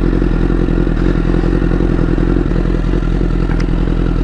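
Honda CBR1000RR's inline-four engine running steadily at low revs, its pitch holding level with no revving.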